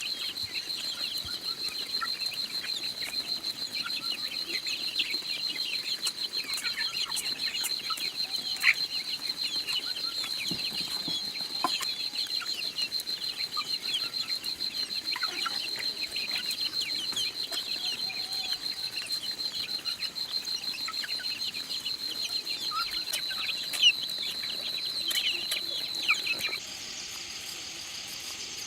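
Chickens clucking and calling over a steady, high-pitched pulsing buzz. Near the end it cuts abruptly to a steady hiss.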